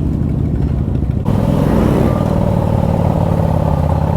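Harley-Davidson Street Glide's 88-cubic-inch V-twin with a loud exhaust running at low speed in slow-crawling town traffic. The sound changes abruptly about a second in, then settles into a steady engine note.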